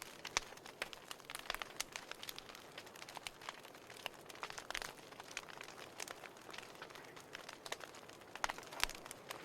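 Burning firewood crackling and popping: irregular sharp snaps over a faint steady hiss, with a couple of louder pops near the end.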